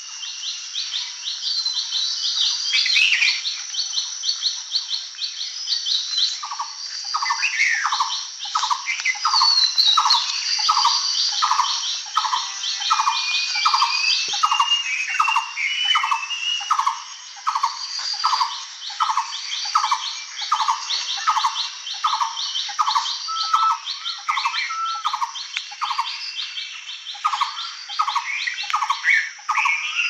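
Several songbirds singing together: fast, high repeated trills run throughout. From about six seconds in, one bird repeats a short, lower note at a steady pace of about three every two seconds, with scattered chirps mixed in.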